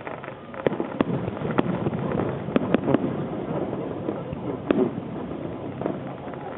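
Aerial firework shells bursting: about seven sharp bangs at irregular intervals, three in quick succession near three seconds in, over a continuous din.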